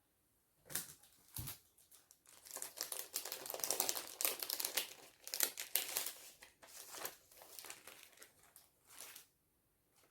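Crinkling and rustling of craft materials being handled. It starts with a few sharp crackles about half a second in, thickens into dense crinkling through the middle, and dies away about a second before the end.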